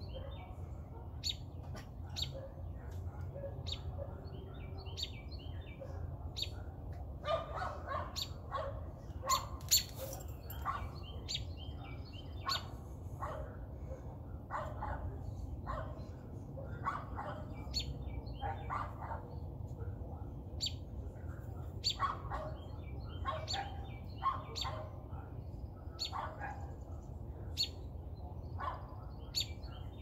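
A bird giving short, sharp, aggressive calls again and again, about one or two a second, with a small dog barking back at times.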